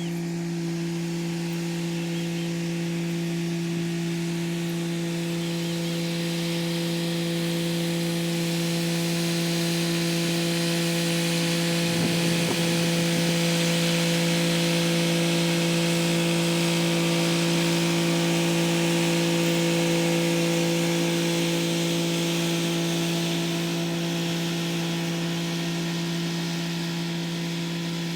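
Kubota SL35 diesel tractor engine running at a steady speed while its rotary tiller works the soil: a constant engine tone under a hiss of tilling. It swells louder through the middle and eases off near the end.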